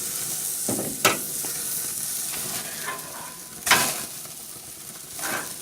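Meat and lobster sizzling on a grill, a steady fizzing hiss broken by a few sharp fat pops, the loudest a little under four seconds in.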